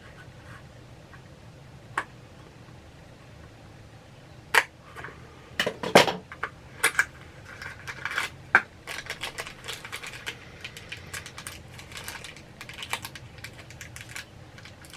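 A mystery pin's packaging being handled and opened by hand: a single click, then from about four seconds in an irregular run of sharp clicks and crackles that gets denser toward the end.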